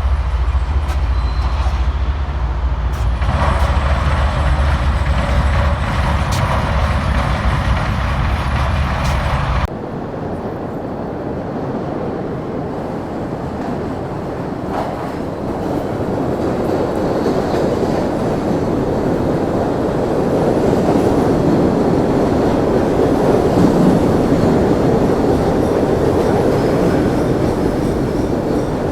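MBTA train running on the rails. For the first ten seconds there is a deep low rumble, then an abrupt change to a rushing rail noise that grows louder in the second half.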